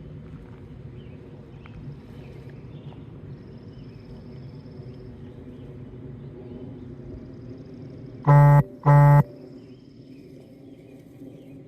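Two short, loud, buzzy horn-like beeps, a little over half a second apart, about eight seconds in. Underneath, a low outdoor rumble and a faint, intermittent high insect trill.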